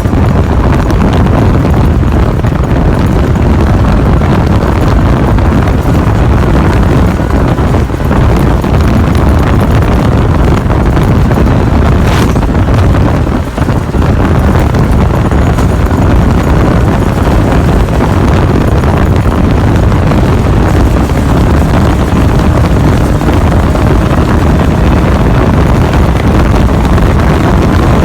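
Class 2 Baja off-road race truck's engine running loud and steady, with wind buffeting the microphone; the level dips briefly about halfway through.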